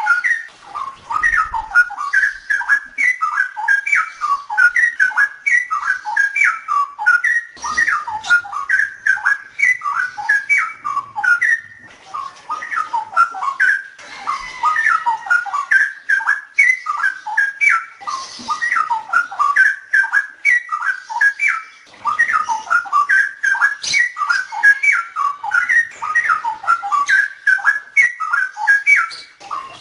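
Straw-headed bulbul singing: a continuous stream of loud, rich whistled warbling phrases, each a quick up-and-down flourish, following one another with hardly a break.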